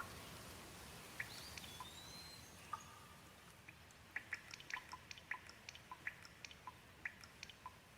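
Gentle rain: a faint steady hiss with scattered drops ticking irregularly, the ticks coming thicker in the second half. A single short whistled note sounds about two seconds in.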